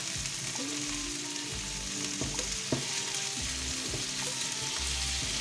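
Chopped bacon and onion sizzling in a frying pan while a wooden spoon stirs them, with a few sharp knocks of the spoon against the pan about two to three seconds in.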